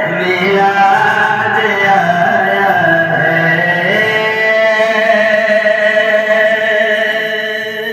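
A voice singing a naat, drawing out a wavering melodic line and then gliding up into one long held note through the second half.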